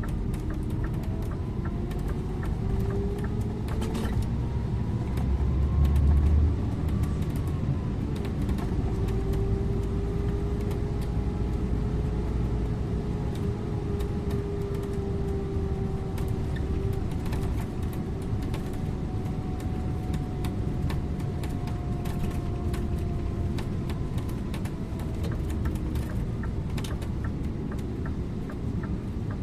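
Scania InterLink bus on the move, heard from the driver's seat: a steady low drivetrain rumble with an engine and gearbox whine slowly rising and falling in pitch as it changes speed, and scattered small clicks and rattles. A deeper rumble swells for about a second around six seconds in.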